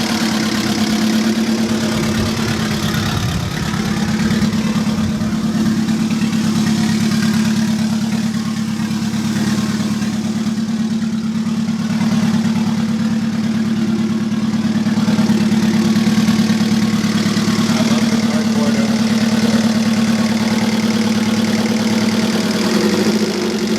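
Turbocharged Honda F20C four-cylinder engine idling steadily while it warms up.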